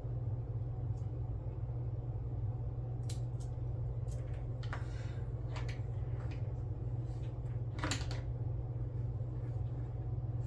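Small hand tools and bare metal foil being handled at a workbench: a few faint clicks and a brief rustle over a steady low hum.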